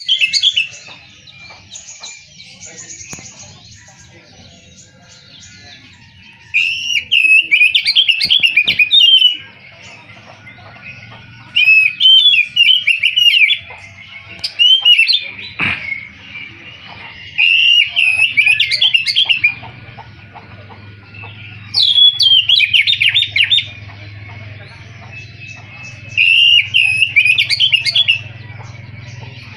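Oriental magpie-robin (kacer) singing: loud, varied whistled phrases of one to two seconds, repeated every few seconds, with quieter twittering between them. A low steady hum runs underneath.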